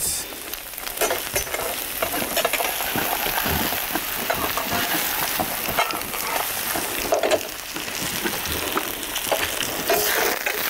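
Spanish omelette (egg with chopped onion and peppers) sizzling in hot oil in a nonstick frying pan, with scattered clicks and scrapes of a metal spatula stirring vegetables in a second pan.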